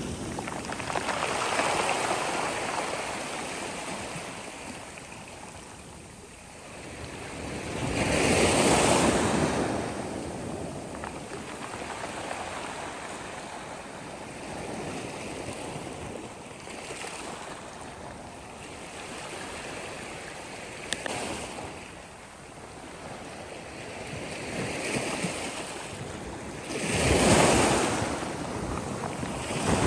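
Sea waves breaking and washing up a shore, rising and falling in slow surges; bigger waves break about a second in, about a third of the way through and near the end.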